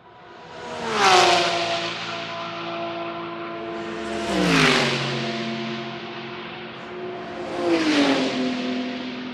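Three GT3 race cars passing one after another at full speed, about a second in, halfway through and near the end, each engine note dropping in pitch as the car goes by.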